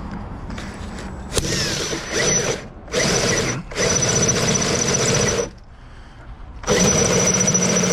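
Power drill with a carbide-tooth cutter boring into a steel door, run in four bursts with short pauses. A steady high whine sits over the grinding of the cut.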